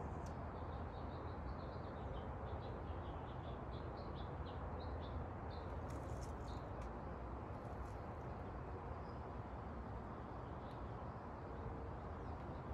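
A small bird chirping in a quick run of short high notes, about four a second, for the first five seconds or so, over a steady low outdoor background hum. A few faint clicks follow partway through.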